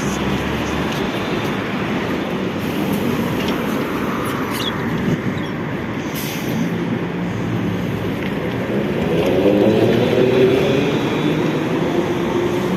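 Trolleybus running, a steady rumble of road noise with the hum of its electric traction motor; about nine seconds in a humming motor whine comes up and grows louder.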